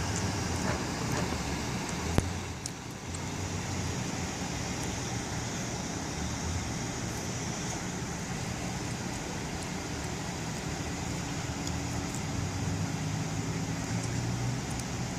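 Steady vehicle and traffic noise with a low hum, and one sharp click about two seconds in.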